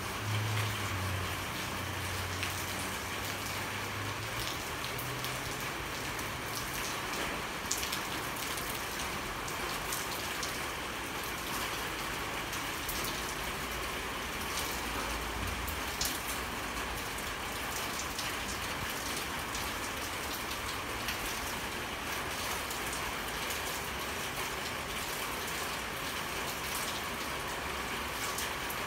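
Steady rain falling, with sharp drop clicks scattered through it. A low hum sits under the rain for the first few seconds, then fades.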